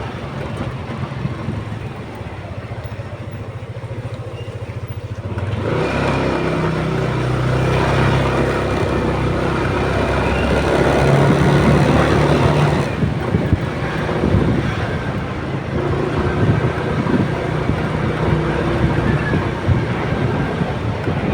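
Motorcycle engine running under way, with wind and road noise on the microphone. The engine and wind noise grow louder about five seconds in and ease back after about thirteen seconds.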